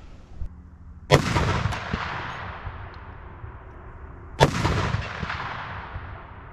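Barrett M82A1 .50 BMG rifle firing two shots about three seconds apart. Each is a sharp blast followed by a long rolling echo that fades over a couple of seconds.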